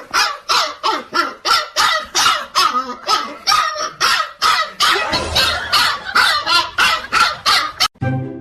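A dog barking over and over in a fast, even run of about three barks a second; the barking cuts off suddenly near the end.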